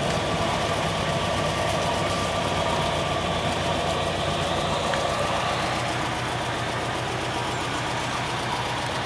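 Matra 530 LX's Ford V4 engine running steadily at low revs, heard from inside the cabin as the car rolls slowly.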